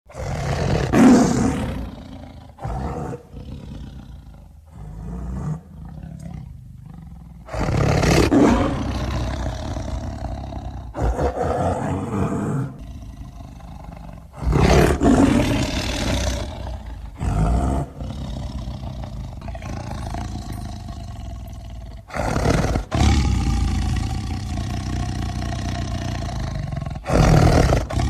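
Smilodon (sabre-toothed cat) creature sound effects: a string of separate roars and snarls, some short and some lasting a few seconds, with deep rough rumbles between them.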